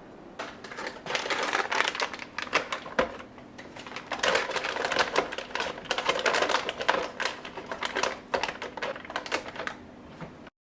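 Plastic storage containers and packaging being handled, with rapid, irregular clicking and crinkling in two busy spells. A faint steady hum runs underneath.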